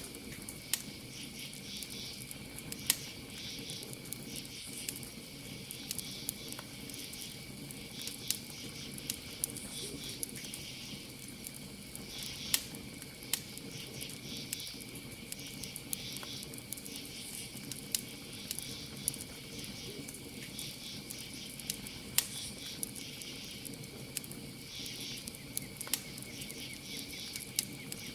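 Campfire crackling with irregular sharp pops, a few much louder than the rest. Underneath runs a steady chorus of night insects such as crickets: one constant high tone and pulsing high trills that come and go every second or two.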